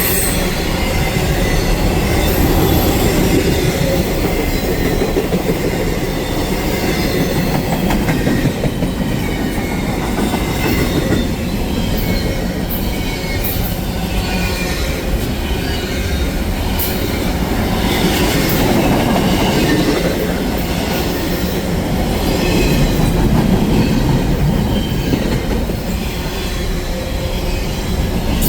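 Railroad cars rolling past: a steady rumble of steel wheels on rail with scattered clacks.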